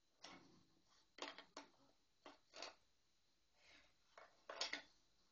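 Irregular short scraping strokes of a hand tool working wood, about nine in all, the strongest near the end.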